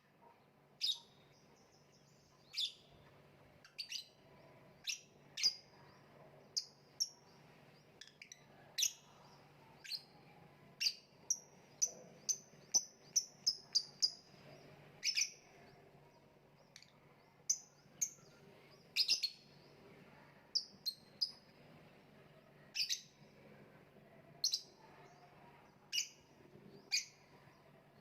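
Lovebird giving short, sharp, high chirps at irregular intervals, with a quick run of rapid chirps around the middle. A faint steady low hum sits underneath.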